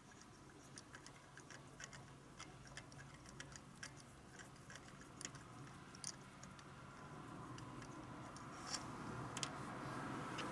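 Faint, irregular light clicks and ticks, a few a second, typical of tools and parts being handled during a spark plug change, over a low steady hum. A broad rushing noise swells near the end.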